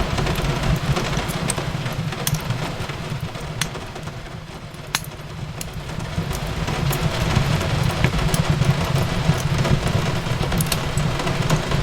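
Fireplace crackling, with scattered sharp pops and snaps over a low, steady rumble of the fire, mixed with the even hiss of rain. The sound eases a little about four seconds in and builds back up.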